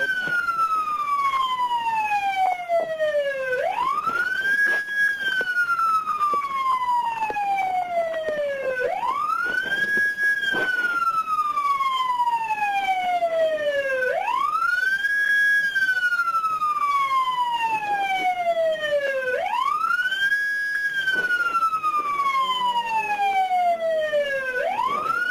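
Police car siren in a slow wail: each cycle climbs quickly, holds briefly at the top, then slides slowly down, repeating about every five seconds.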